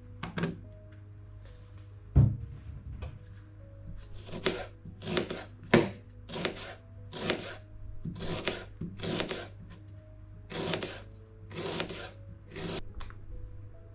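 Knife cutting food on a cutting board: a single knock about two seconds in, then a steady run of slicing strokes, roughly one cut every 0.7 seconds, stopping shortly before the end. Soft background music plays underneath.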